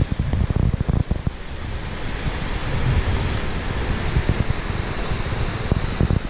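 Wind buffeting the microphone in uneven gusts, over a steady rush of water from the waterfall and the sea.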